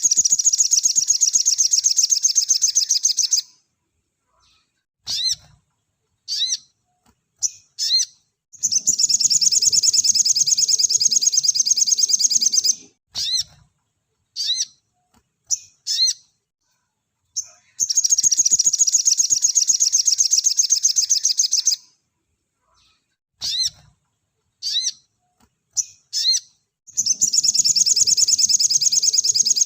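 A sogon (sogok ontong) singing in long, high, rapid-fire trills of about four seconds each, four times. Short, sharp upslurred chirps fill the pauses between the trills.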